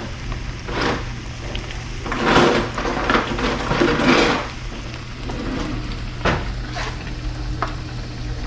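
Pots, pans and cooking utensils clattering, with irregular knocks and scrapes that are busiest a couple of seconds in and a few sharp clicks near the end, over a steady low hum.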